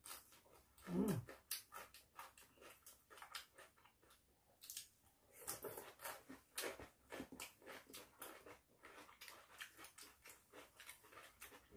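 Faint mouth sounds of people eating at close range: a string of small wet chewing clicks and smacks as they work through mouthfuls of rice and kimchi, with one brief low sound about a second in.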